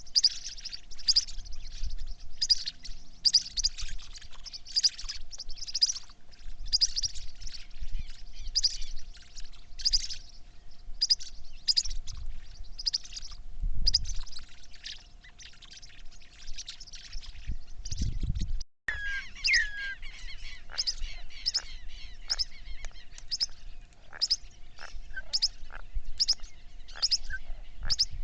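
Birds chirping rapidly and repeatedly, about two high calls a second. After a brief break about two-thirds of the way in, the chirps turn shorter and more varied.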